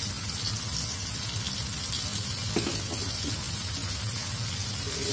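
Blended chili paste sizzling steadily in a wok as used frying oil is poured onto it, the start of sautéing the dried-down spice paste.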